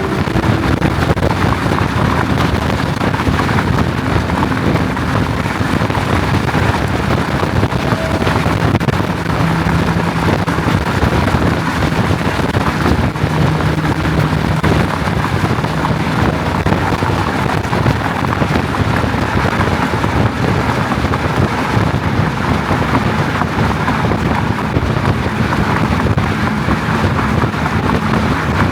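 McLaren 570S twin-turbo V8 running at a steady, fairly constant pitch while the car is driven, under loud wind and road noise.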